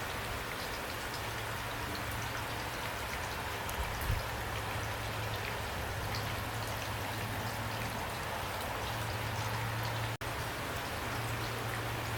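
Heavy rain pouring steadily, an even hiss with scattered individual drops ticking through it. A low steady hum lies underneath, and the sound cuts out for an instant about ten seconds in.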